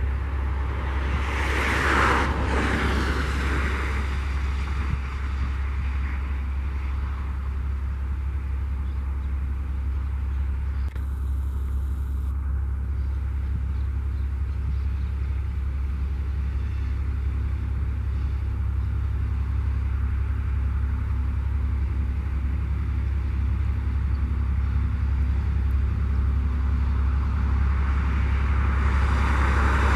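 Low, steady rumble of an ALCO RSD16 diesel locomotive hauling empty ore hopper cars, growing louder toward the end as it approaches. A brief rushing swell comes about two seconds in.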